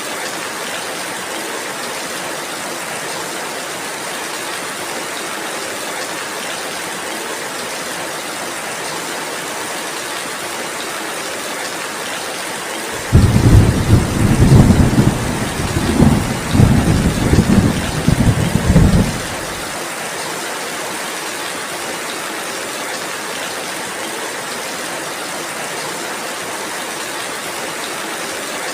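Steady rainfall. About halfway through a deep rumble of thunder starts suddenly, rolls in several waves for about six seconds as the loudest sound, then stops.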